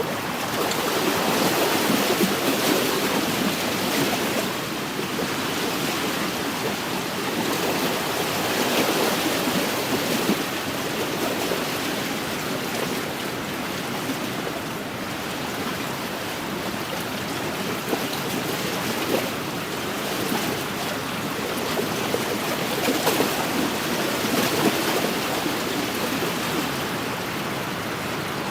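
Wind-driven lake waves lapping along a shoreline: a steady wash of water that swells and eases every few seconds.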